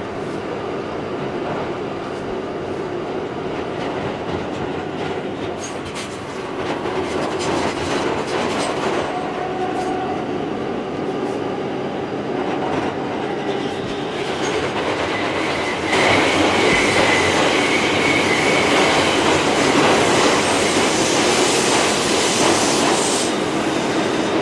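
New York City Subway G train running on the track, a steady rumble and clatter over the rails. It gets louder about two-thirds of the way in, and a high wheel squeal follows briefly.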